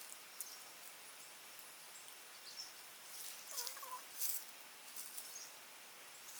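Faint forest ambience: a steady hiss with scattered light clicks and ticks, and a brief wavering call a little past halfway, followed by the loudest click.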